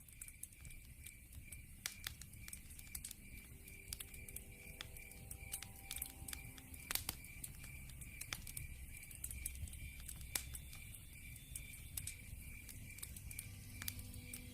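Wood fire crackling with many sharp pops over a low steady rumble. Behind it runs a steady, evenly pulsed high chirping of night insects, about three chirps a second.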